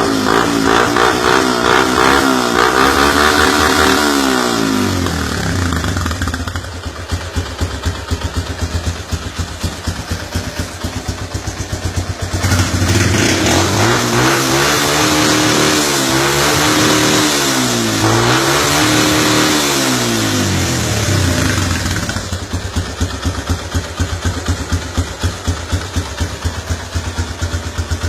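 Suzuki Gixxer motorcycle's single-cylinder engine, fitted with a modified exhaust, being revved at a standstill. It is revved for the first few seconds, idles, then gets a run of several quick revs through the middle, and settles back to idle near the end.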